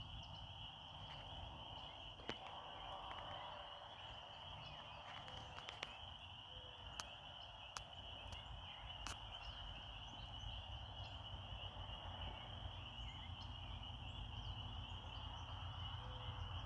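Steady high-pitched insect chorus, one unbroken band of trilling, over a faint low rumble, with a few faint scattered clicks.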